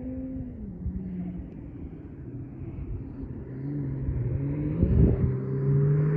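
Holden VY Commodore's 3.8-litre Ecotec V6 through Redback headers, a high-flow cat, a centre muffler and a straight tailpipe. The revs drop about half a second in, then climb steadily under acceleration from about three and a half seconds, the exhaust note getting louder, with a brief rush of noise about five seconds in.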